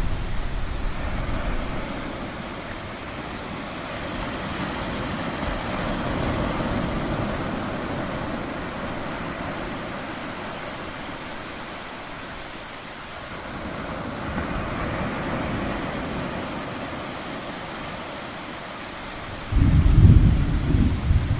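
Ocean waves washing in and drawing back, swelling twice, with distant thunder rumbling. A low thunder rumble fades out at the start, and a loud peal of thunder breaks suddenly near the end.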